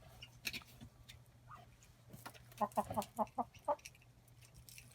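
Chicken clucking: a quick run of about seven short clucks a little past the middle.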